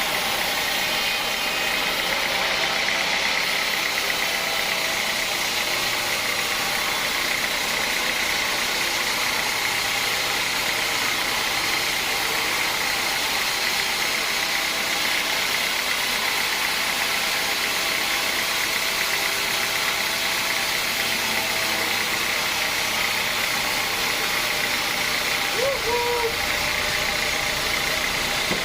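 Sawmill machinery running steadily, an engine-driven saw with a constant high whine and no change in load.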